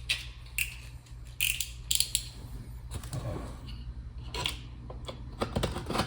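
Cardboard box being opened by hand: scattered scrapes and clicks of cardboard being pulled and handled.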